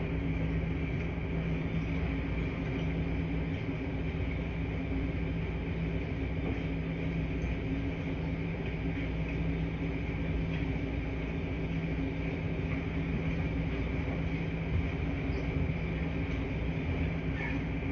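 Laundry machines running with a steady, even hum: a low drone with a few held tones over a soft hiss, and a few faint clicks.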